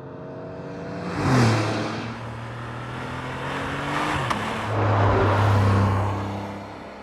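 Porsche 992.2 Turbo S's twin-turbocharged flat-six engine accelerating hard. It surges to a loud peak about a second in, holds, then pulls loudly again around five seconds in before easing off near the end.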